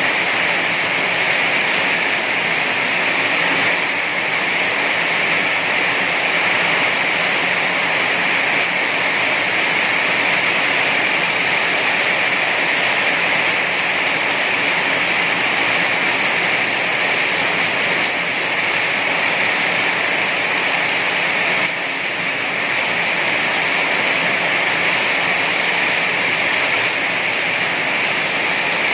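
Heavy rain falling, a steady dense hiss with no breaks or single drops standing out.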